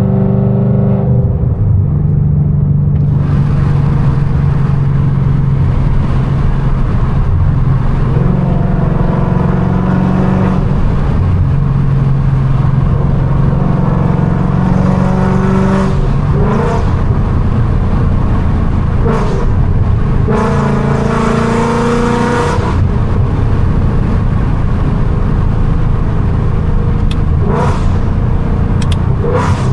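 Straight-piped, catless 5.0 V8 of a 2019 Mustang GT, the engine note repeatedly climbing and dropping as it is revved and eased off through a slide. There is a harsher rasping burst about two-thirds through and a few sharp exhaust pops near the end.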